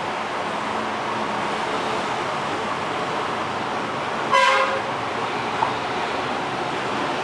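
A single short horn toot about four seconds in, over a steady background hiss of traffic-like noise.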